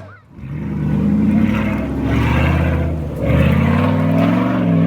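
Off-road 4x4 vehicle's engine revving in two long surges, its pitch climbing and falling back, after a brief lull at the start.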